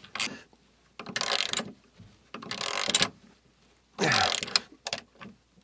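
Socket ratchet wrench turning a bolt in three strokes, each with a burst of ratchet clicking. Timber creaks as the washer beds into the wood, a sign that the bolt is nearly as tight as it will go.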